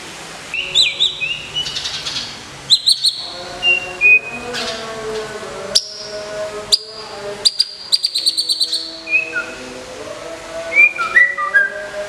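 White-rumped shama (murai batu) singing: a varied run of loud whistled phrases, some gliding up or down, broken by sharp clicks and a fast chattering trill of repeated notes about two-thirds of the way through.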